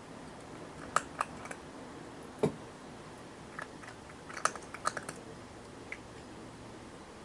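A dozen or so scattered sharp clicks and taps, bunched in two short clusters, with one duller thump about two and a half seconds in, over a steady faint hiss.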